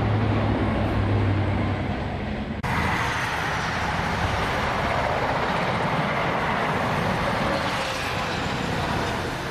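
Train of a small saddle-tank steam locomotive and brake van running on the rails, a low rumble with a steady hum. After an abrupt cut a little over two seconds in, a steady loud hiss follows.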